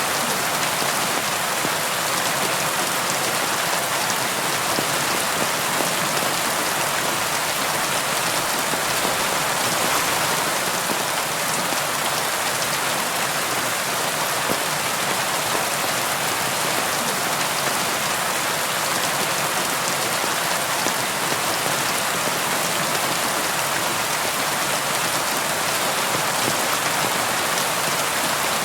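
Steady rainfall, an even hiss of many drops, unchanging in level throughout.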